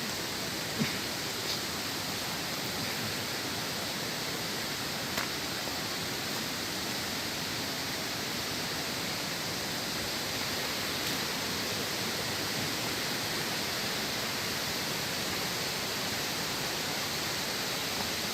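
Steady rush of water from a waterfall and its stream, with a few faint clicks.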